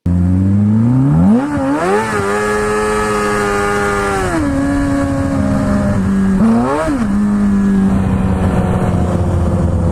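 Sportbike engine under way: the revs climb about a second in, hold, fall off after about four seconds, then rise and fall in a quick rev near seven seconds before settling to a steady drone, over road and wind noise.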